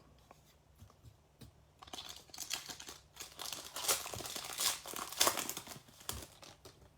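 Crinkly plastic trading-card pack wrapper being cut open with scissors and pulled apart, a run of crackling rustles that starts about two seconds in and is loudest near the middle.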